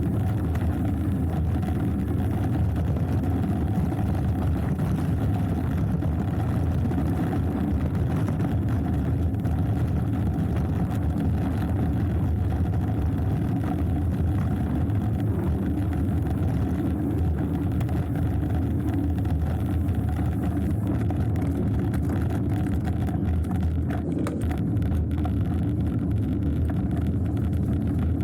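Hardtail mountain bike riding down a dirt trail: a steady low rumble of the tyres on the ground and the rattling bike.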